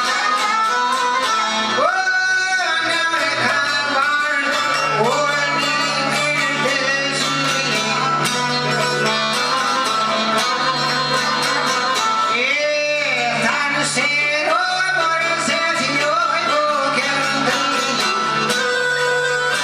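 Albanian folk music: plucked string instruments and fiddle playing sliding melodic lines, with a steady low drone coming in about five seconds in.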